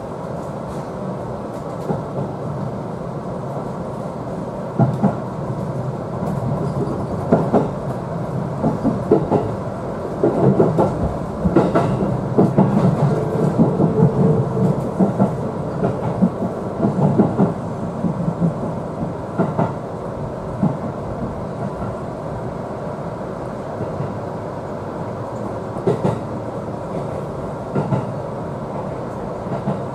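Seibu 4000 series electric train running, heard from inside the front cab: a steady rumble with wheels clicking over rail joints. The clicks come thickest from about ten to seventeen seconds in, as the train crosses a set of points.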